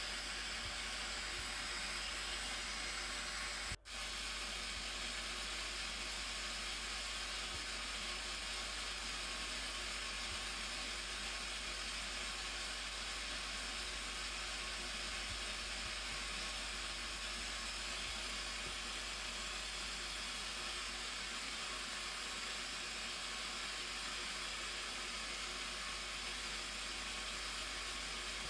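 Blue Nile Falls' water rushing: a steady, even wash of noise with no rhythm, broken by a momentary gap about four seconds in.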